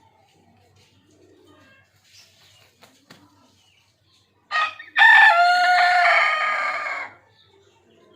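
Desi (native-breed) rooster crowing once, about halfway through: a short first note, then one long call of about two seconds that fades away at the end.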